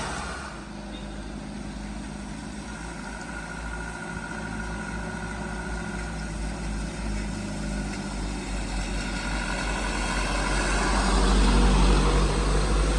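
A vehicle's engine running at low revs with a faint steady whine, growing louder over the last few seconds as the vehicle comes nearer.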